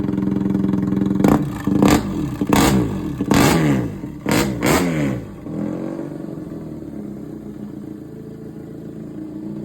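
BMW R nineT's air-cooled boxer twin through a custom exhaust with an expansion chamber and twin rear exits, idling, then blipped about six times in quick succession, each rev rising and falling back, before settling to a quieter steady idle near the middle.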